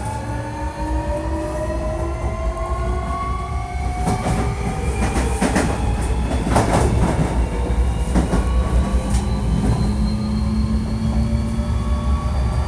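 Hankyu 1300 series train heard from on board, its Toyo IGBT VVVF inverter and traction motors giving several layered whines that slowly rise in pitch as it gathers speed. This is a unit known for an unusual inverter sound. Wheels clack over rail joints a few times midway.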